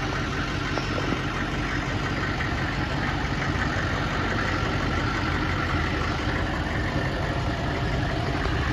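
Ice cream truck's engine idling steadily, an even low rumble with no change in speed.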